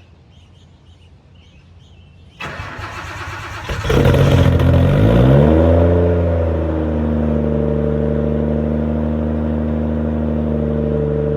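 Car engine cold-started: the starter cranks for about a second and a half, the engine catches, its revs climb and then it settles into a steady fast idle.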